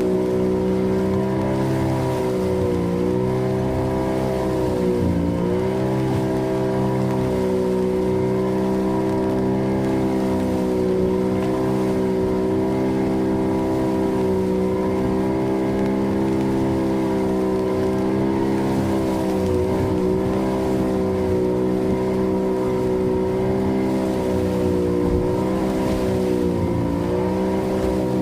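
Fishing boat's engine running steadily at trolling speed, its pitch dipping briefly now and then as the boat works through the waves.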